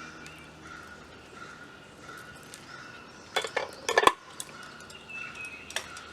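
Stainless steel Kelly Kettle clinking against its metal fire base as it is set down on the fire: a quick cluster of sharp metal knocks about three and a half seconds in.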